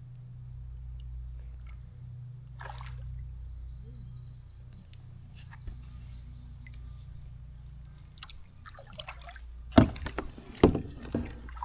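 A steady high-pitched chorus of crickets, with a few sharp knocks and some water sloshing against the kayak near the end.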